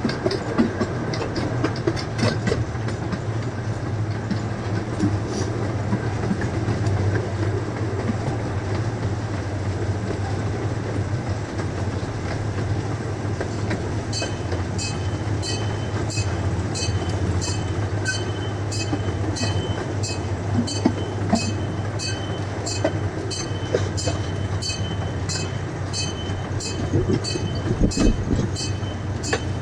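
Zoo train running on its track: a steady low engine hum with rolling wheel and rail noise. About halfway through, a regular high ticking at roughly two a second starts, with a steady high tone beside it.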